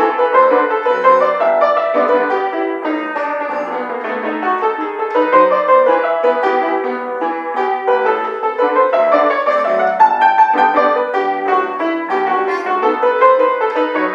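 Instrumental pasillo played on a piano: a quick melody over chords, kept to the middle and upper register with no deep bass notes.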